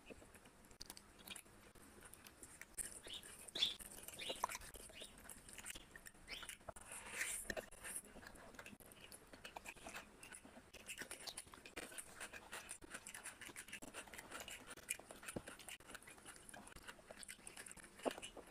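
Close-miked person chewing mouthfuls of biryani and curried meat eaten by hand, a run of irregular small wet clicks with a few louder bites.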